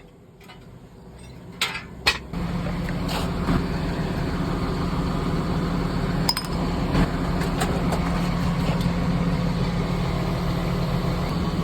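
Two sharp clicks, then a steady mechanical running sound with a low hum, starting about two seconds in.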